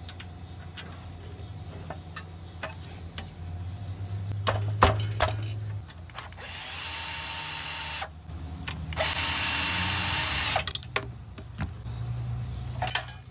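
Battery power tool spinning out bolts from a small engine's cylinder head, with two steady runs of about two seconds each. Between the runs there are clicks and knocks of the tool and socket on metal.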